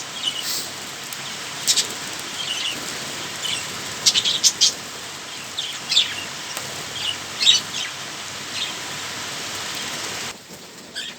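Budgies bathing in a shallow dish of water: a steady patter of splashing as they flap and dip, with short budgie chirps scattered through. The patter cuts off near the end.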